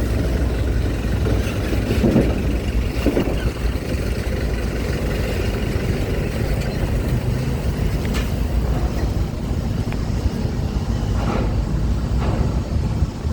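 Trucks and cars rolling slowly onto a ferry, their engines making a steady low rumble, with a few short knocks now and then.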